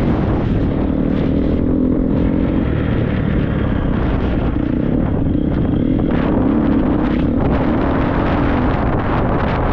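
Triumph 250 motocross bike engine running under way, its revs rising and falling, with rushing wind and short knocks throughout.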